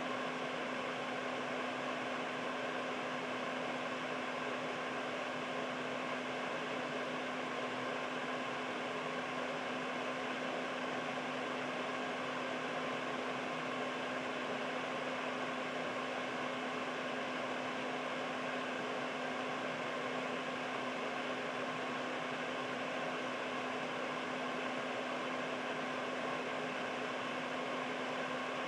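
Air purifier running steadily: an even rush of fan air with a constant low hum and faint steady tones above it.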